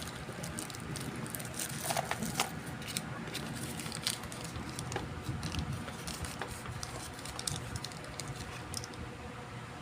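Scattered light clicks and taps from handling tools and a circuit board on a repair bench, over a steady faint hum.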